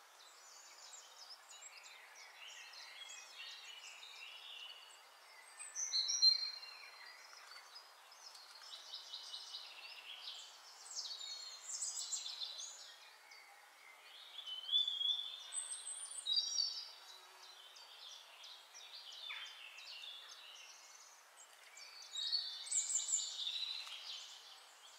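Songbirds singing: a run of high whistled chirps and quick trills, with louder phrases about six seconds in, around twelve and fifteen seconds, and near the end.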